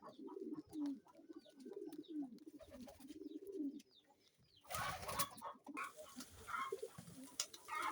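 Pigeons cooing in low, wavering calls for the first few seconds. After a short lull there is a brief rustle, then hens clucking.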